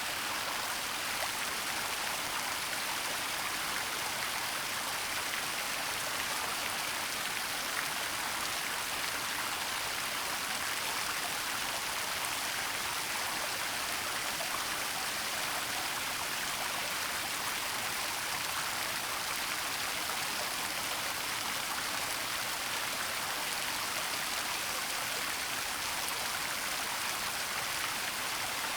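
Steady rush of a waterfall's falling water, an even hiss with no breaks or changes.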